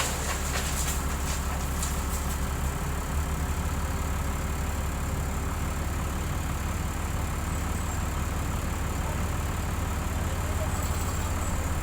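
Heavy-equipment diesel engine running steadily with a low drone, with a few light clicks in the first two seconds.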